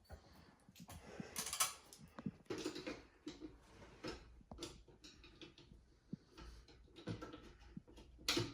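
Irregular small clicks, taps and light rattles, as of objects or tools being handled, with a sharper knock near the end.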